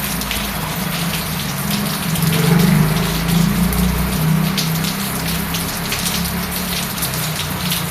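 Steady rain falling, with many small drop hits, over a low motor hum that grows louder about two seconds in and eases off again a couple of seconds later.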